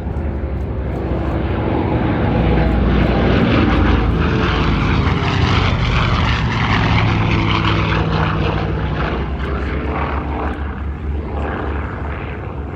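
Douglas DC-6B's four Pratt & Whitney R-2800 18-cylinder radial engines and propellers droning in a flyby. The sound swells to its loudest about four to six seconds in, then slowly fades as the aircraft passes.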